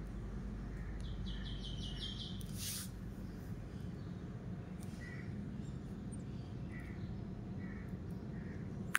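Steady low background hum with birds chirping faintly: a rapid trill about a second in, then short chirps repeating roughly once a second in the second half. A brief hiss cuts in just before three seconds in.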